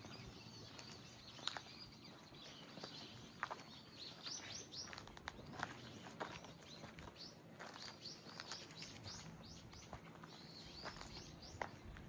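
Small birds chirping: runs of quick, short, high chirps that come in bursts about four seconds in, around eight seconds and again near the end, over a faint steady outdoor background. A few sharp ticks are scattered through it.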